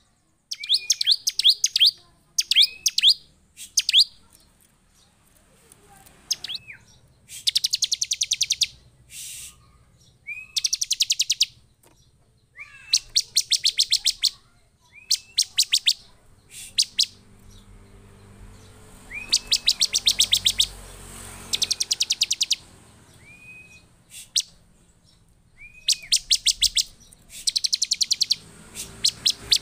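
Bar-winged prinia (ciblek) calling excitedly: repeated bursts of rapid, high chipping notes about a second long each, mixed with short sliding whistled notes.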